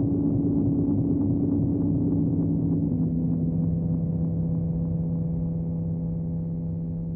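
Sustained low droning tones, several held together. The pitch shifts about two to three seconds in, and the sound slowly fades toward the end.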